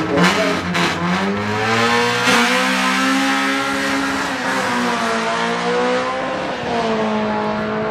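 Two cars accelerating hard side by side down a drag strip, their engines held at high revs, with shifts in pitch at the gear changes.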